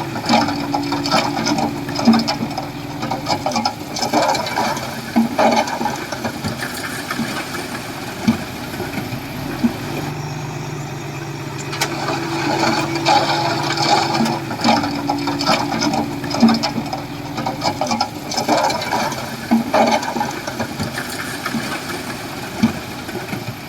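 Komatsu bulldozer's diesel engine running under load, its drone stepping up and down in pitch a few times, over steady clattering and sharp knocks from the tracks and the rock and soil being pushed.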